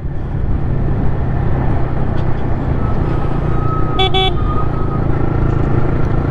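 Yamaha MT-15's single-cylinder engine running steadily through an Akrapovic R1M replica full-system exhaust while cruising in a high gear, which keeps the exhaust note low. About four seconds in, a vehicle horn toots briefly.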